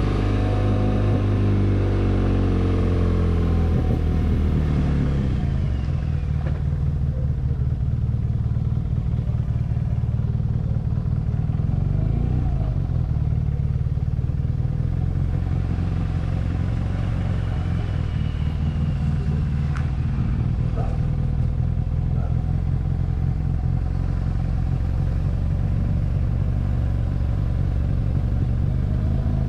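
BMW R nineT's air/oil-cooled boxer twin running on the road, heard from a camera mounted on the bike. The engine note shifts in pitch over the first few seconds as the revs change, then settles into a steady low beat.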